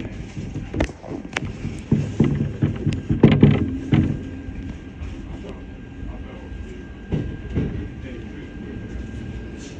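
Steady low hum inside a Shinano Railway SR1 electric train, with a faint thin tone over it. A run of knocks and clatters comes over the first four seconds and again briefly around seven seconds in.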